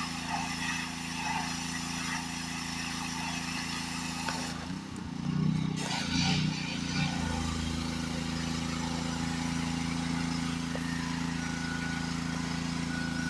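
Gas pressure washer's small engine running steadily, with the hiss of the water spray over it. About five seconds in the spray cuts out for a second or so and the engine note shifts, then the spray comes back and the engine runs evenly again.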